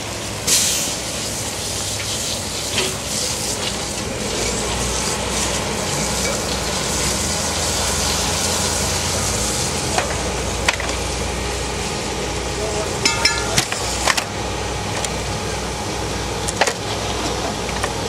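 Wet concrete being poured, a steady hissing, slushing slide, with an engine running low underneath from a few seconds in and several sharp knocks scattered through.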